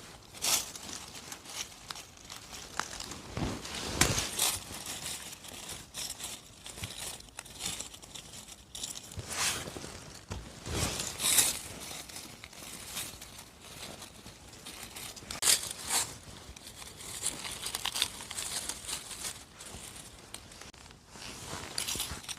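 Irregular rustling and crinkling of forest-floor litter and plants handled close to the microphone while mushrooms are picked, with scattered sharper crackles and snaps.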